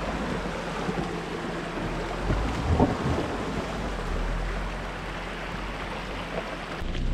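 Suzuki Jimny driving on a forest track: a steady engine hum under rushing wind and road noise, with a few soft knocks about halfway through.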